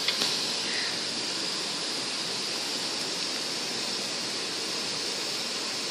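Steady, even hiss of background noise with no distinct events, apart from a small tick at the very start.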